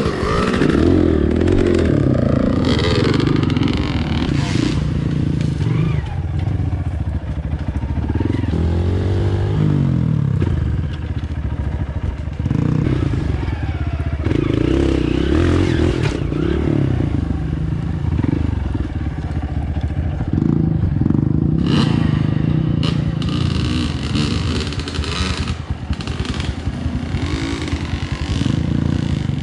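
Dirt bike engine running under way, its revs rising and falling as it is ridden along a rough trail.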